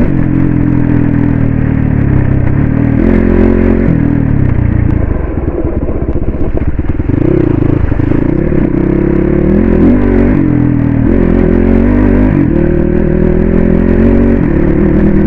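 Crossfire RM 250 dirt bike engine running under way, its pitch rising and falling as the throttle opens and closes over a rough off-road track, with some rattle and clatter. The engine note roughens about five seconds in, then picks up again.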